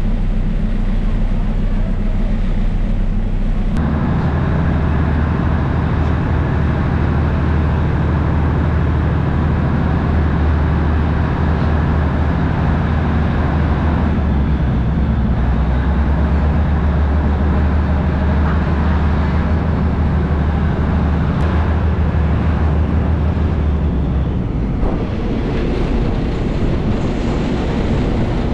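Diesel railcar running with a steady low engine drone. The sound changes abruptly about four seconds in, and the lowest part of the drone eases off near the end.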